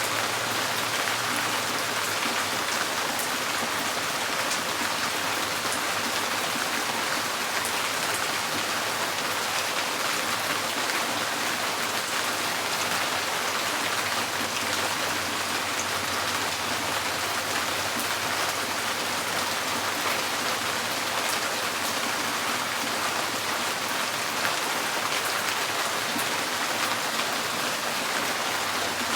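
Steady rain drumming on a tin porch roof, a dense even patter with scattered sharper drop ticks.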